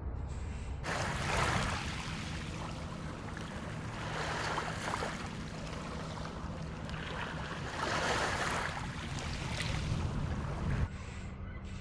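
Baltic Sea waves washing onto the shore, a steady rush of surf that swells three times, about every three seconds. It cuts off abruptly near the end.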